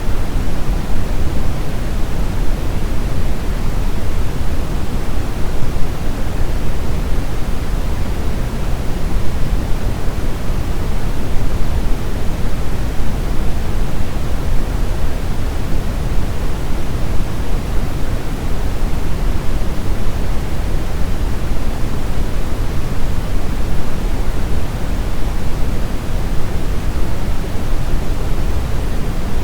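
Steady synthetic brown noise: an even, unchanging rumbling hiss, strongest in the bass and fading toward the treble.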